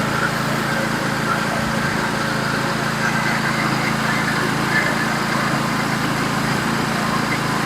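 Norwood HD36v2 portable band sawmill running steadily under load, its engine droning evenly as the band blade cuts through a pine log.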